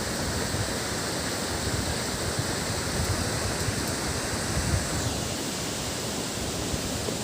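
Waterfall crashing into its pool: a steady, even rush of falling water, with low gusts of wind on the microphone.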